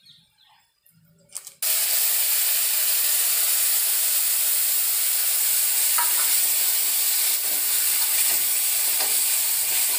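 Ground masala paste in water poured into hot oil and onions in a kadhai, starting a sudden loud, steady sizzle about a second and a half in. From about the middle on, a spatula stirs through it.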